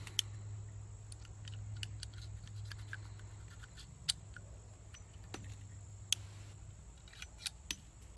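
Metallic clicking of a .38 Special Uberti Lightning revolver being unloaded: the cylinder is turned chamber by chamber and spent cases are pushed out with the ejector rod, some of them sticking. Scattered sharp clicks, with a few louder ones, over a steady low hum.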